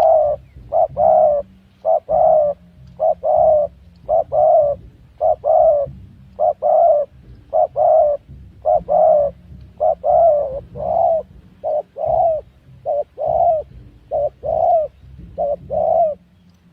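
Spotted dove cooing: a long run of low, loud coo notes, mostly in pairs and short groups, repeated over and over.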